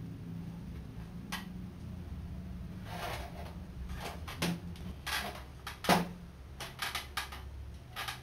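Scattered clicks and rustles of handling at a chair, with one sharp knock about six seconds in, over a low steady hum.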